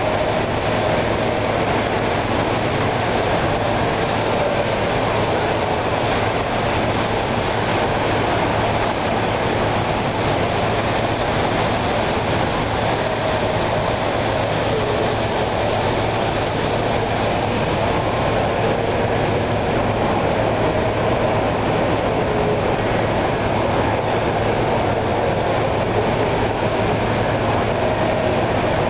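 Model freight trains running on a model railroad layout: a steady, even rumble of wheels on track and small motors, with no breaks.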